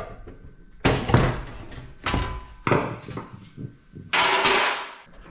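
Metal computer-case parts being handled during scrapping: several sharp clanks and knocks, then a short scraping rush about four seconds in.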